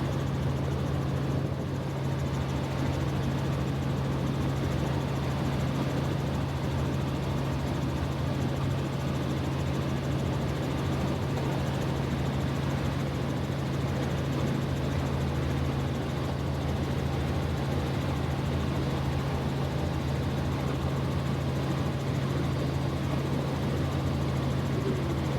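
Helicopter cabin noise in flight: a steady low hum under an even rushing noise, unchanging throughout.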